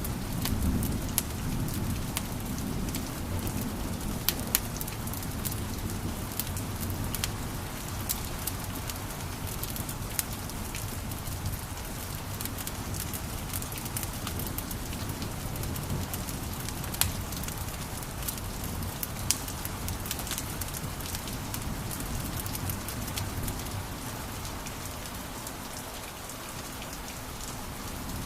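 Wood fire crackling in a fireplace: a steady hiss and low rumble with many sharp pops and snaps scattered irregularly throughout.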